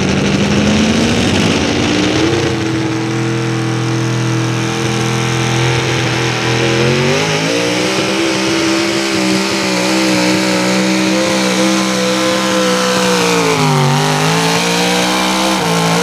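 Modified 4x4 pulling truck's naturally aspirated 650-cubic-inch V8 running at high revs under load while pulling a sled. The engine note climbs in the first two seconds, steps up again around seven seconds in, then sags briefly near the end before picking back up.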